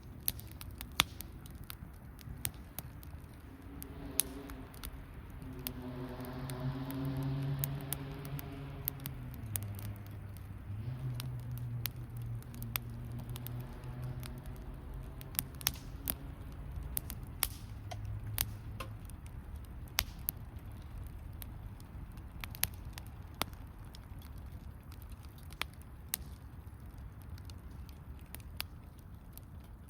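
Wood campfire crackling, with frequent sharp pops and snaps. From about four seconds in, a distant engine hum swells and fades, shifting pitch in steps as it goes, and is gone by about nineteen seconds.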